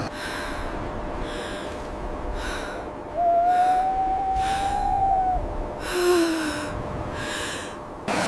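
A person breathing hard in gasps, about one breath a second, over a steady hiss. About three seconds in, a long, steady hoot-like tone holds for roughly two seconds, followed by a short falling tone.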